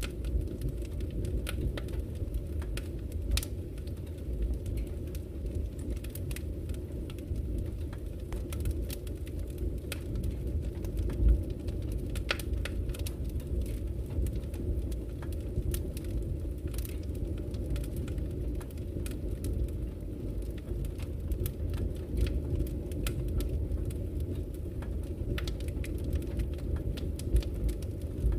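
Wood fire in a fireplace crackling, with irregular sharp pops and snaps over a steady low rumble of the burning fire; one louder pop about eleven seconds in.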